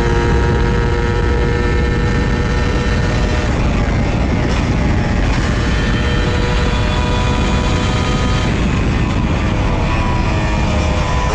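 Honda Dash 125 single-cylinder two-stroke engine running at a steady, fairly high speed while the motorcycle is ridden, over a heavy low rumble. The engine note dips slightly in pitch near the end.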